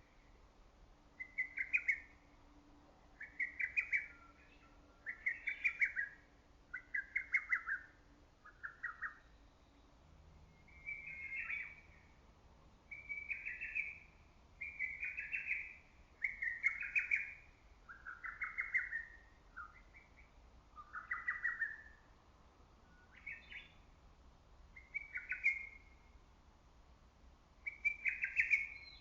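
Lesser cuckoo (hototogisu) singing: loud, rapid staccato phrases repeated about every one to two seconds, with a brief pause about a third of the way through.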